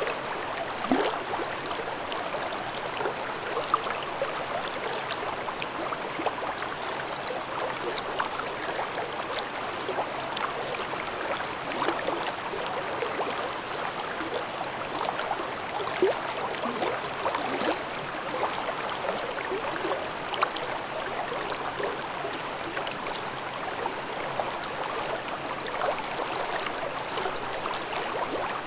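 Mountain stream babbling over rocks in a ravine: a steady rush of water with constant small gurgles and splashes.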